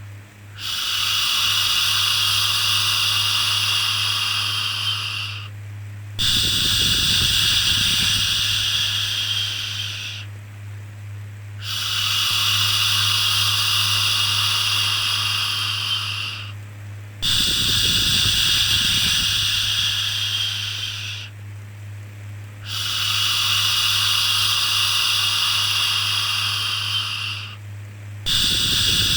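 Repeated long 'shhh' shushing for soothing a baby, each shush lasting about four to five seconds with a brief pause between them, about five in all. A steady low hum runs underneath.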